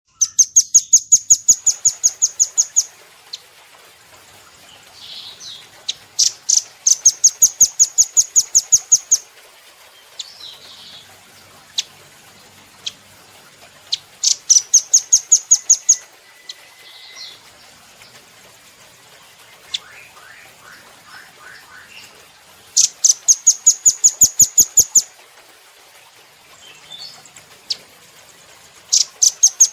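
Velvet-fronted nuthatch singing: bursts of fast, high, evenly spaced chattering trill notes, about eight a second. Each burst lasts two to three seconds, and the bursts come about five times, with fainter short calls between them.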